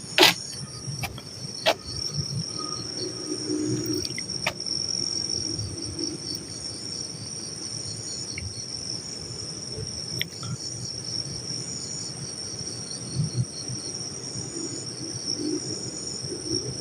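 Crickets chirping in a steady high trill, with a few sharp clicks in the first few seconds.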